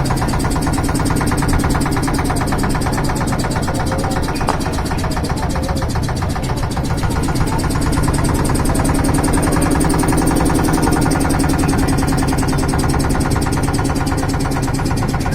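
An engine running steadily, with an even pulsing texture.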